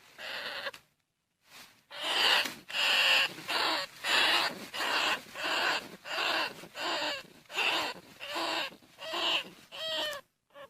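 Greater bandicoot rat calling: one short call, a brief pause, then a regular run of about a dozen short, raspy calls, roughly one and a half a second.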